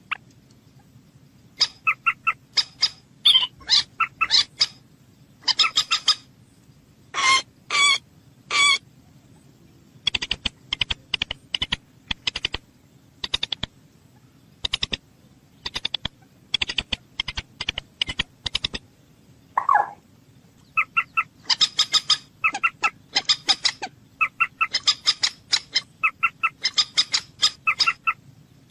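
Bird calling in repeated bursts of short, sharp notes, with a fast rattling run of clicks in the middle.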